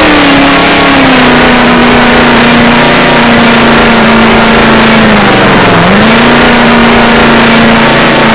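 Chevrolet Camaro engine running under way with road noise, very loud and steady, its engine note holding level apart from a brief dip in pitch about five and a half seconds in.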